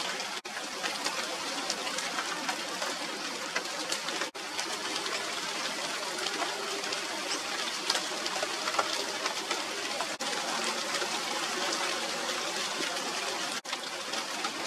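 Steady rain falling on the leaves of a China doll tree (Radermachera sinica): a dense hiss of rainfall with many single drops ticking through it. It cuts out for an instant four times.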